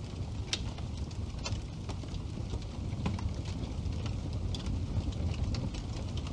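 Wood fire burning in a fireplace: a steady low rumble of flames with scattered sharp crackles and pops from the burning wood, the strongest about half a second and a second and a half in.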